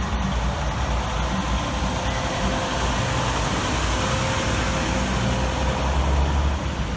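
Trucks driving past, a steady mix of engine noise and road noise.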